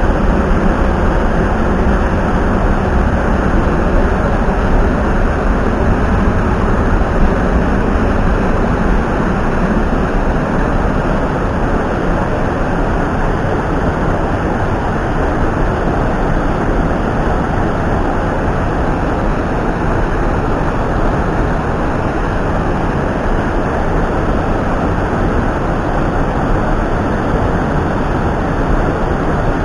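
Mountain stream rushing: a loud, steady noise of flowing water that does not change.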